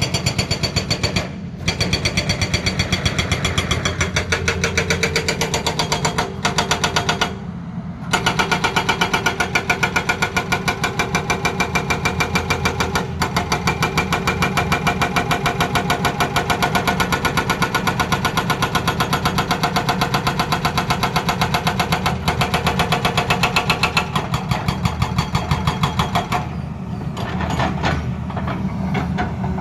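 Hydraulic rock breaker on a Tata Hitachi excavator hammering rapidly, with the excavator's diesel engine running underneath. The hammering stops briefly twice in the first eight seconds and becomes lighter and uneven near the end.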